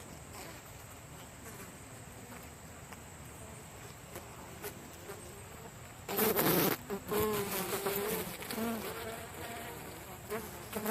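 Honeybees from an open hive buzzing in the air, agitated and aggressive. The buzz is faint at first. About six seconds in it jumps up with a brief loud rush of noise, then wavers up and down in pitch as bees fly close past.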